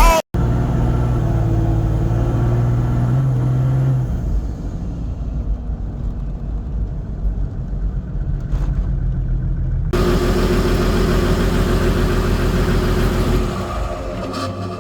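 Toyota Land Cruiser 80's 1HD-FTE straight-six turbo-diesel running steadily, held at raised revs for the first few seconds, dropping back to a lower idle, then raised again about ten seconds in before settling down near the end.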